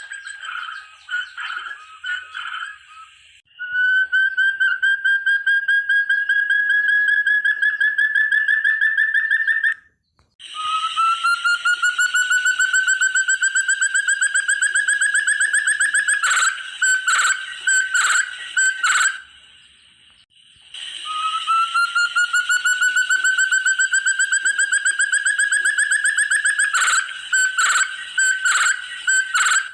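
Forest partridge (puyuh hutan) song: long series of rapid whistled notes that climb steadily in pitch, each series running about six seconds, repeated after short breaks. Twice, louder separate notes sound over the rising series.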